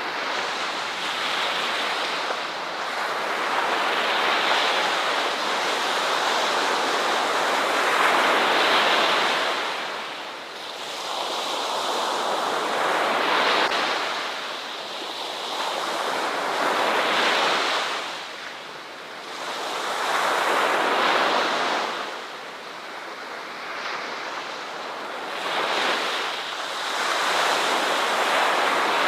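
Ocean surf: waves breaking and washing in, the rush of water swelling and falling back about every four seconds.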